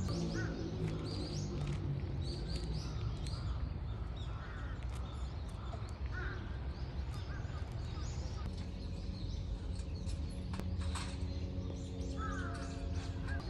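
Birds calling repeatedly: many short, high calls scattered throughout, with a few harsher, lower calls.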